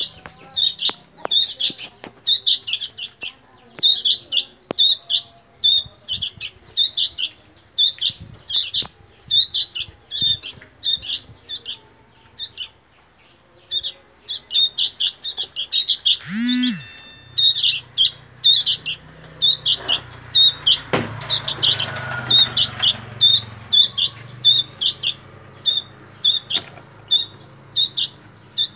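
Young sooty-headed bulbul (kutilang) chick begging for food with short, insistent chirps repeated several times a second. A low hum joins in a little past halfway.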